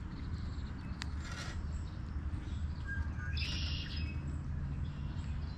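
A bird chirping briefly about three and a half seconds in, over a steady low rumble, with a single click about a second in.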